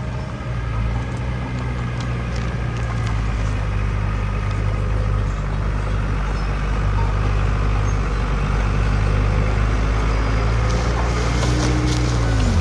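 Heavy diesel earthmoving machinery running steadily with a deep drone. Near the end a higher tone slides down in pitch.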